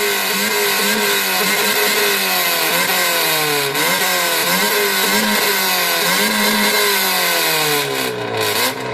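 Car engine revved over and over through a loud competition exhaust. The pitch climbs and drops roughly once a second, then falls back lower near the end.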